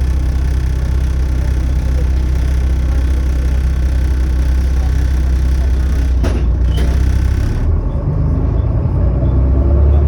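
Volvo B7TL double-decker bus's six-cylinder diesel engine running under way, heard from on board as a loud, steady rumble with the rattle of its blown exhaust. There is a brief sharp sound about six seconds in. About two seconds later the engine note changes and the hiss above it cuts off suddenly, then the rumble builds again near the end.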